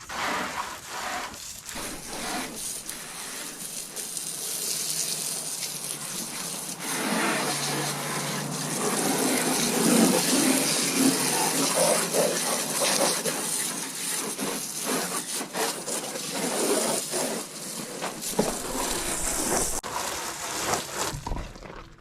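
Garden hose spraying water onto an ATV's fenders: a steady rushing hiss of spray, with the splashing heavier and fuller through the middle stretch.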